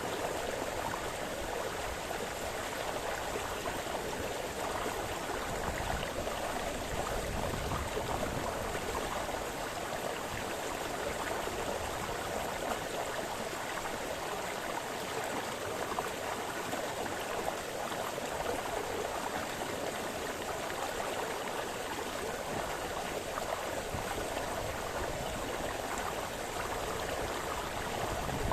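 A small forest brook splashing and burbling steadily over stones, with a dense, even rush of running water.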